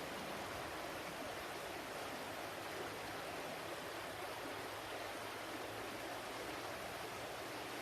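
Flowing water rushing steadily and evenly, without any separate splashes or other events.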